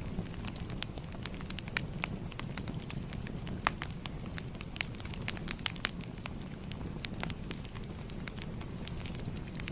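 Fire crackling: frequent irregular snaps and pops over a steady low rumble.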